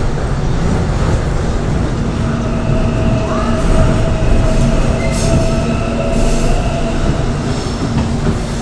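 Korail 3000-series electric subway train running, heard from inside the car: a steady rumble with a constant hum, and brief high-pitched wheel squeals about five and six seconds in.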